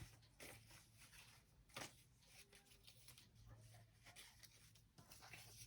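Near silence with faint rustling of paper cut-outs being sorted, and one slightly louder brief rustle about two seconds in.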